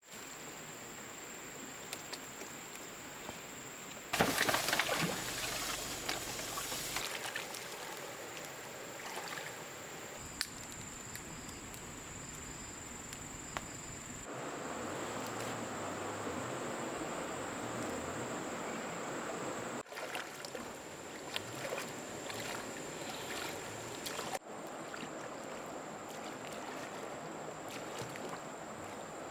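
Water sloshing and trickling, with a steady high-pitched whine above it. The sound changes abruptly several times, with a louder stretch about four seconds in.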